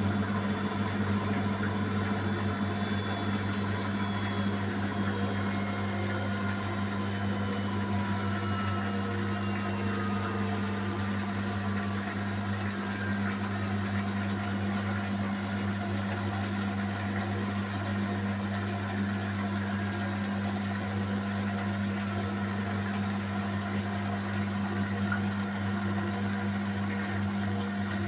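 Beko WMY81283LMB2 washing machine in its final spin with an unbalanced load of curtains: a steady low hum with a faint motor whine that slowly falls in pitch over the first half.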